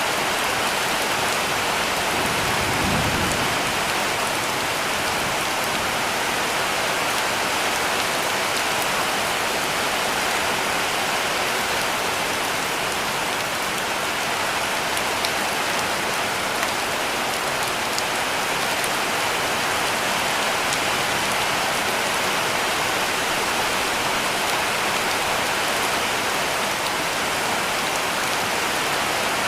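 Heavy rain falling steadily on a roof, an even hiss of many drops. A brief low rumble comes about three seconds in.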